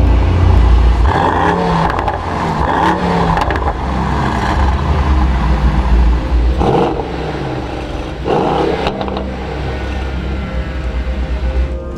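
Mercedes-AMG GT 63 S's twin-turbocharged 4.0-litre V8 revving and accelerating under a deep rumble, its pitch climbing and dropping again and again as it runs through the gears.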